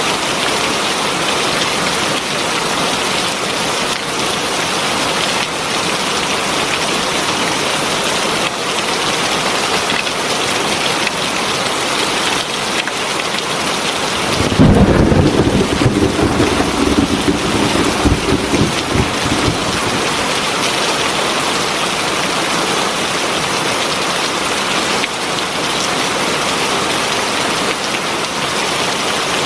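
Steady heavy rain falling throughout. About halfway in, a low thunder rumble breaks in suddenly and fades out over about five seconds.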